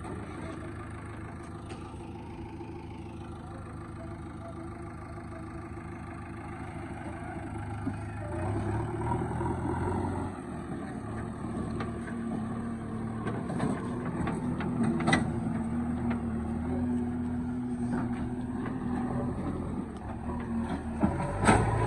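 Diesel engine of a JCB 3DX backhoe loader running while it works. It picks up about eight seconds in and holds a steadier, higher note. Two sharp knocks sound, one past the middle and one near the end.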